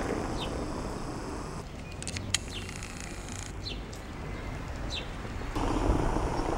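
A small bird chirping, a few short, high, falling chirps spaced about a second apart, over steady street ambience, with a sharp click about two seconds in.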